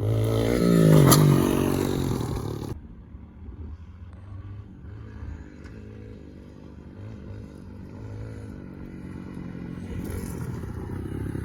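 Pit bike engine revving hard, its pitch climbing, for about three seconds. Then the sound drops abruptly to a fainter, steadier engine drone, which grows louder again near the end.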